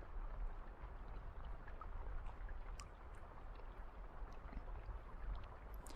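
A soft, steady rain ambience: an even hiss with faint scattered ticks.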